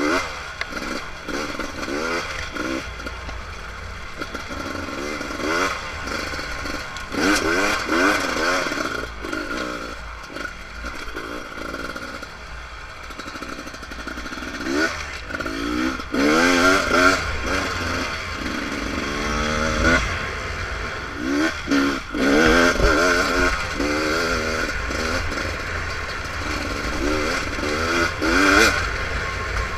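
Beta RR300 two-stroke enduro dirt bike engine being ridden on a trail, revving up again and again in quick rising sweeps as the throttle is opened and closed, with clattering and knocks from the bike over rough ground.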